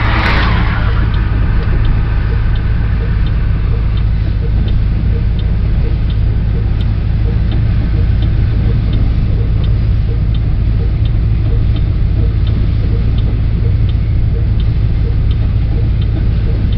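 Double-stack intermodal freight train rolling through a grade crossing, heard from inside a stopped car: a steady low rumble, with the crossing bell dinging evenly a little faster than once a second. A brief sharp knock right at the start.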